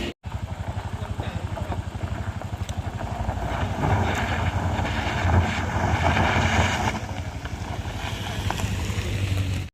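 A heavy truck's diesel engine running with a steady low throbbing beat.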